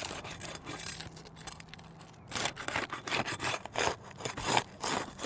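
Asphalt shingles being pried up to break their mastic sealant strips: a run of short scraping, tearing strokes, fainter at first and louder and quicker from about halfway.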